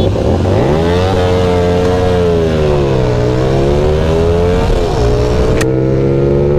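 Motorcycle engine accelerating hard, its pitch climbing steeply about a second in, sagging and rising again, dropping briefly near the five-second mark as at a gear change, then climbing steadily. A single sharp click sounds shortly after the drop.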